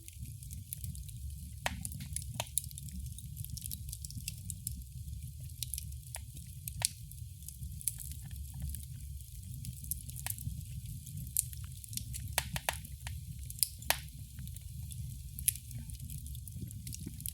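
Wood fire crackling in a fireplace: a steady low rumble and hiss with irregular sharp pops and snaps scattered throughout.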